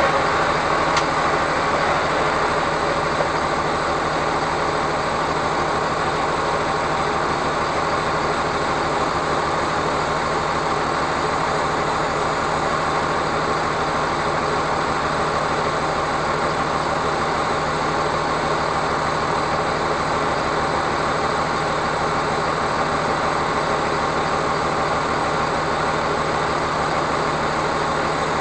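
Truck engine and road noise, steady and unbroken, with a low drone underneath.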